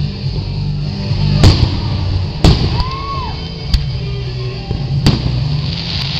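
Fireworks shells bursting: four loud bangs about a second to a second and a half apart. Music with a steady bass line plays under them.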